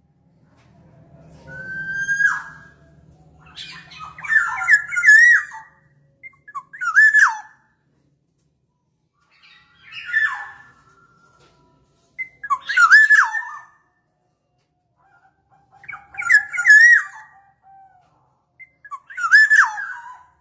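Black-naped oriole (kepondang) calling: short, loud whistled phrases that swoop and dip in pitch, repeated about every three seconds, as played to lure the bird.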